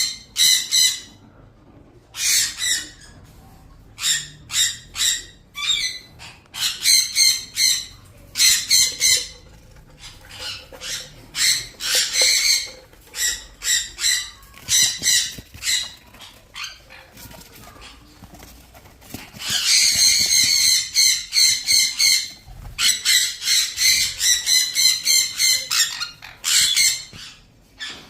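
Ring-necked parakeet chicks calling in fast runs of repeated notes with short pauses between, the longest unbroken run about two-thirds of the way through.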